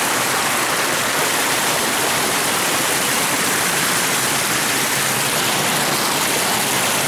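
Floodwater of a storm-swollen creek rushing past in a loud, steady roar of water.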